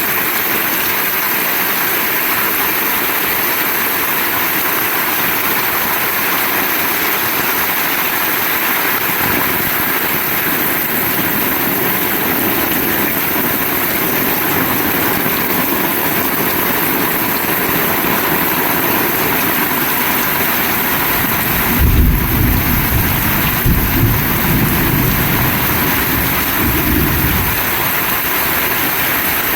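Heavy rain falling hard, a steady, even hiss. About three-quarters of the way through, a low rumble swells in, peaks, and dies away over about six seconds.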